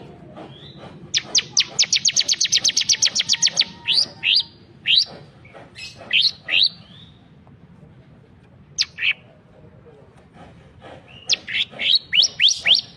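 Ciblek (bar-winged prinia) song, recorded as a training master for cage birds: a rapid 'bren' trill of sharp, high notes each sweeping downward at about eight a second. It goes on into slower, spaced down-slurred notes, then after a pause a fresh burst of quick descending notes near the end.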